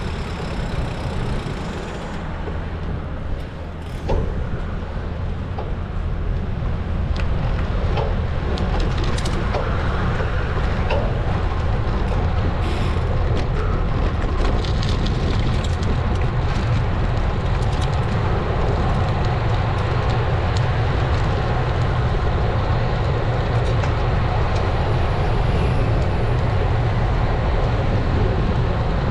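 Wind rushing over an action camera's microphone on a moving road bike, mixed with tyre and road noise. There is a sharp knock about four seconds in, and the rushing grows louder from about six seconds on.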